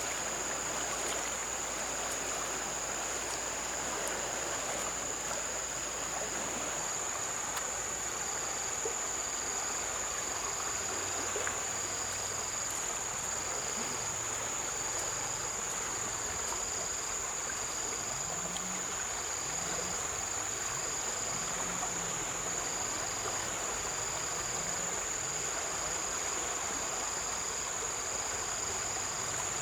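Insects calling over running water. One makes a steady high-pitched buzz, and another pulses at about once a second.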